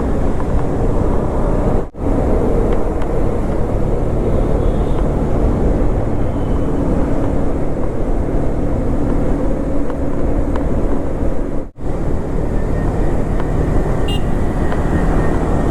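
KTM Duke 250's single-cylinder engine running under way, with the loud rush of riding noise on the microphone; the sound drops out briefly twice.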